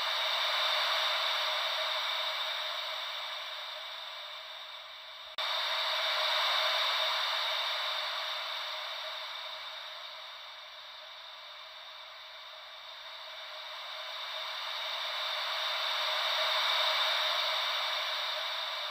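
Gentle ocean-wave white noise: a hiss with no low rumble that slowly swells and fades like waves rolling in, about three swells. About five seconds in the level jumps up abruptly rather than building.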